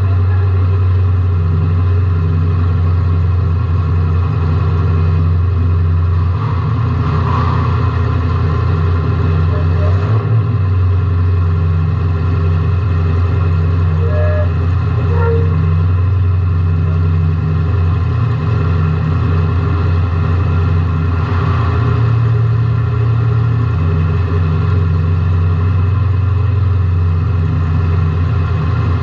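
Car engine running loud and fairly steady, heard from inside the car, its pitch stepping up or down a few times.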